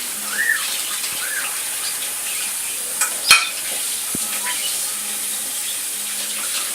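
Steady hiss of running tap water, with two short rising-and-falling chirps in the first second and a half and a sharp clack about halfway through.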